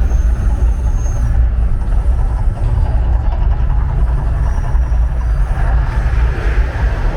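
Loud, steady deep rumble from the volcano show's eruption effects.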